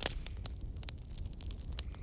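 Wood fire crackling: irregular sharp pops and snaps over a steady low rumble, with a louder pop right at the start.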